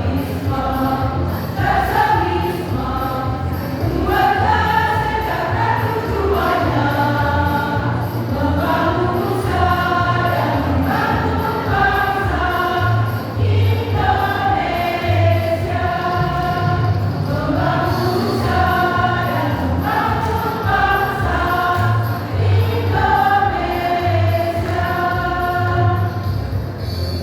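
A women's choir singing a song in unison, with a keyboard accompaniment keeping a steady low beat.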